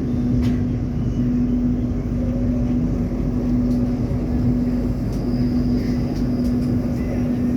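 Passenger train running at speed: a steady low rumble with a constant hum, and a few faint clicks.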